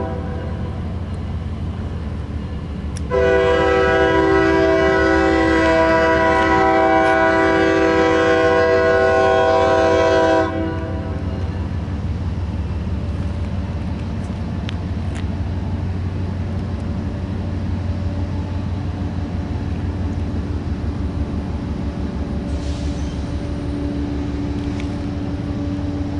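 Locomotive horn sounding one long blast of about seven seconds, a chord of several steady notes that starts a few seconds in and cuts off suddenly. Under it, the steady low rumble of the train runs on.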